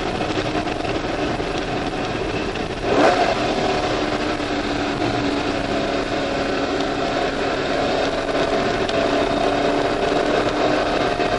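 Chevrolet C5 Corvette Z06's LS6 V8 heard from inside the cabin at speed on a road course, over wind and tyre noise. A brief loud burst comes about three seconds in, after which the engine note climbs steadily.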